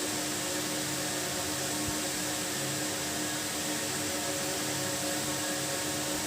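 A steady background hum with a hiss, unchanging throughout.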